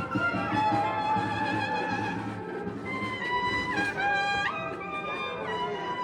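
Music: a brass melody of held notes stepping up and down in pitch.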